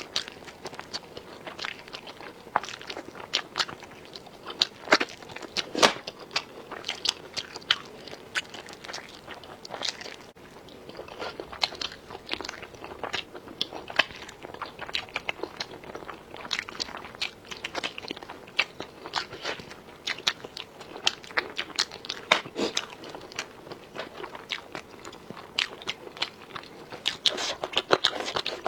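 Close-miked eating: crunchy bites and chewing, with many irregular sharp crunches, several a second.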